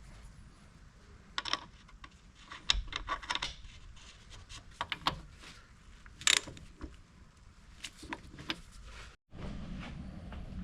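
Irregular clicks, knocks and scraping, as of hard objects being handled and rubbed together, over a low background hum. The sound drops out briefly about nine seconds in.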